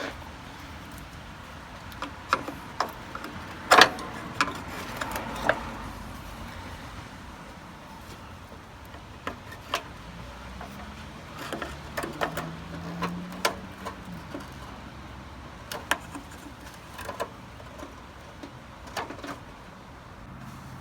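Scattered knocks and clicks, the loudest about four seconds in, with a faint low hum from a little before halfway to about two-thirds through.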